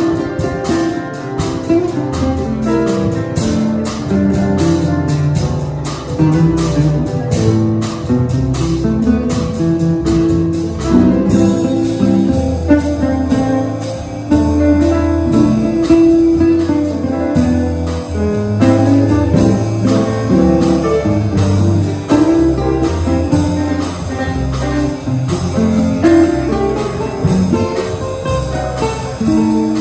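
Live jazz quartet of piano, guitar, bass and drums playing a bossa nova, with the guitar prominent over a walking low bass line and the drums keeping an even, ticking rhythm.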